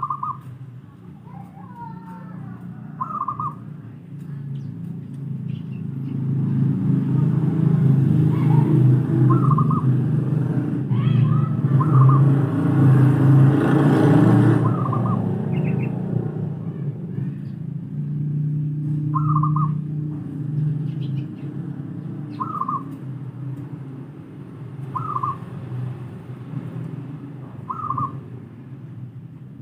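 Zebra doves (perkutut) calling: short coos repeated every few seconds. Under them runs a low rumble that swells and fades through the middle.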